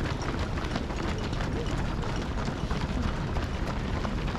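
Footsteps of a large field of marathon runners passing on the road: a dense, continuous stream of shoe strikes, with scattered voices in the background.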